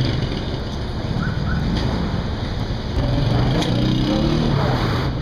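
Motorcycle engine running under wind noise on the microphone, revving up in pitch about three seconds in and easing off again near the end.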